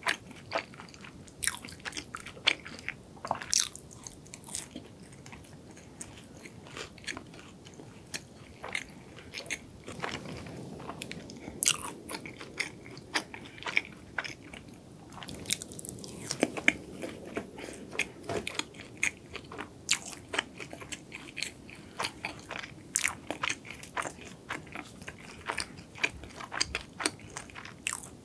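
Close-miked chewing of a cronut, a flaky laminated croissant-dough doughnut: irregular crisp crunches and clicks throughout, with a few louder bites standing out.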